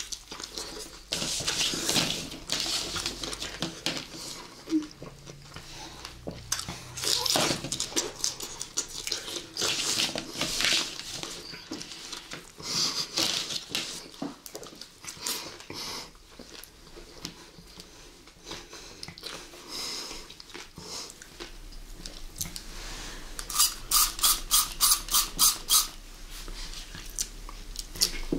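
Close-miked biting and chewing of fresh strawberries and blueberries: a run of wet, crackly crunches and mouth smacks. Near the end comes a quick string of about eight short sprays from a small handheld candy spray bottle being pumped.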